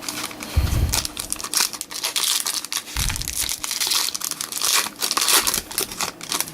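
Foil wrapper of a Topps Chrome trading card pack being torn open and crinkled in the hands. There is steady crackling throughout, with two dull thumps, about half a second in and about three seconds in.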